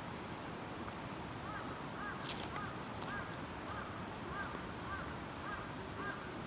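A bird calling over and over in short arched notes, about two a second, starting about a second and a half in, over a steady rushing background noise.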